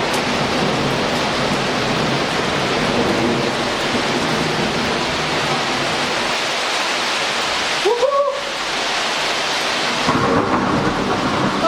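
Heavy rain pouring steadily in a thunderstorm, with thunder. The rain noise thins for about two seconds around eight seconds in, when a short rising pitched sound is heard, then comes back.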